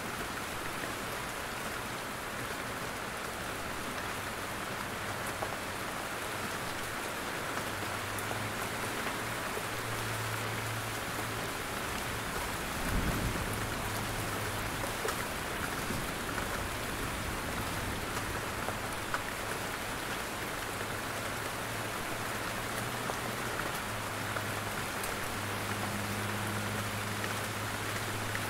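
Steady rain falling in a forest, with drops dripping from the trees. There is a brief low thump about halfway through.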